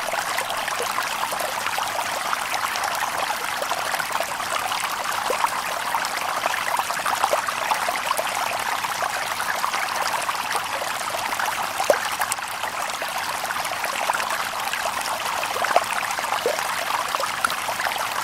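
A shallow stream babbling over stones: a steady rush of water with small splashes and gurgles scattered through it.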